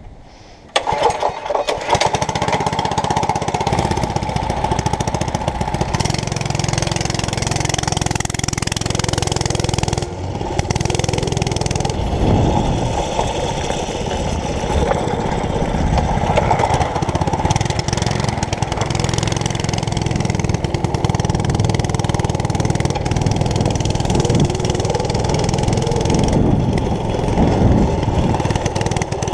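A mini bike's small gas engine comes in about a second in and runs loudly and steadily for the rest of the time, its pitch shifting a little as the throttle changes.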